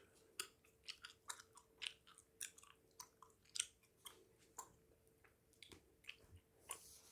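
Hubba Bubba Max bubblegum being chewed close to the microphone: soft, irregular wet clicks and smacks of the mouth, about one or two a second.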